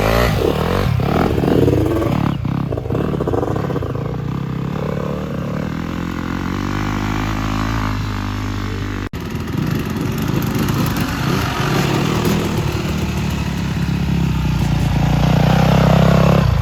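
Dirt bike engine running and revving up and down, with a brief break about nine seconds in and louder revving near the end.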